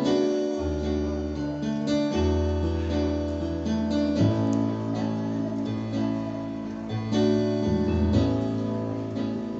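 Live gospel band playing an instrumental introduction, with strummed acoustic guitar over a bass line that changes note every second or two.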